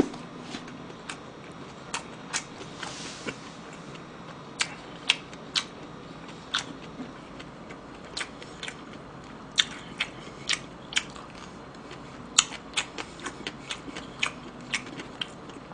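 A person eating close to the microphone: chewing a mouthful of rice with seaweed flakes, with many sharp, irregular clicks from the mouth and chopsticks.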